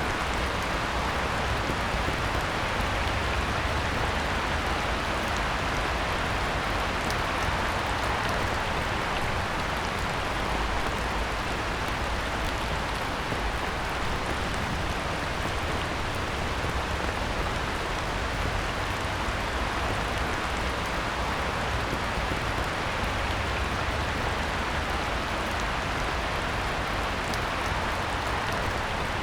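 Heavy rain falling on a pond: a steady, dense hiss with scattered drop ticks.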